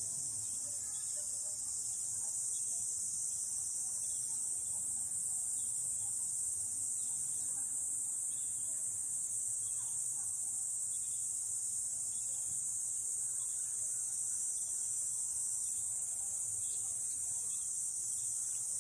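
Steady, high-pitched chorus of insects, unbroken and even.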